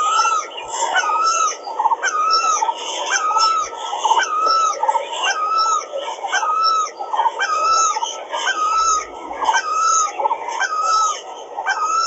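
A bird calling over and over, one short call about every 0.7 seconds, very evenly, over a steady wash of other bird sound.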